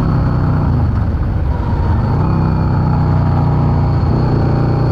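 Yamaha V-Star 650's V-twin engine running under way, its note dropping about half a second in and climbing back by about two seconds as the throttle is eased off and opened again, over road and wind noise.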